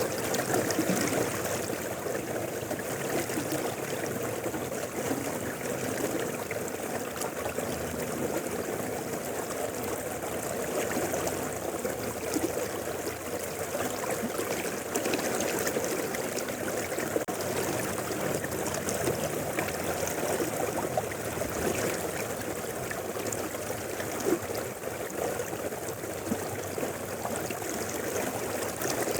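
Mountain river water flowing steadily, a continuous babbling rush without pause.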